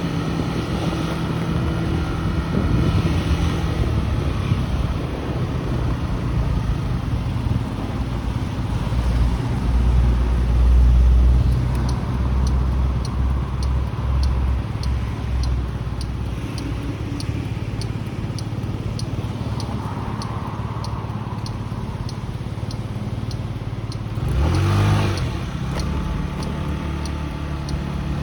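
Small motorcycle engine running steadily while riding, mixed with road and wind noise. A brief louder surge of passing-vehicle-like sound comes near the end.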